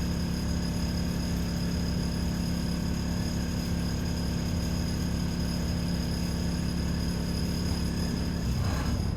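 Alexander Dennis Enviro 400 double-decker bus running steadily, a constant low engine hum with steady high-pitched whines over it.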